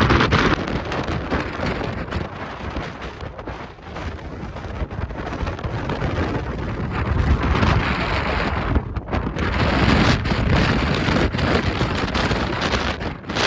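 Strong gusting wind buffeting the microphone, a loud noisy rumble that rises and falls with each gust.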